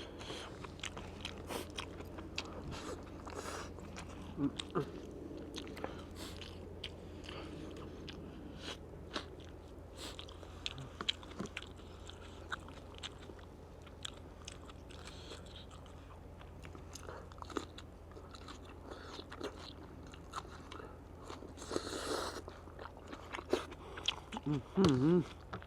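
Close-up eating sounds: irregular crunches and small wet clicks of someone biting and chewing food, over a steady low hum.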